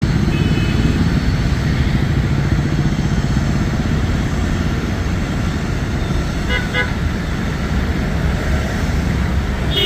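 A steady low rumble of road traffic, with a vehicle horn tooting twice quickly about six and a half seconds in and once more at the very end.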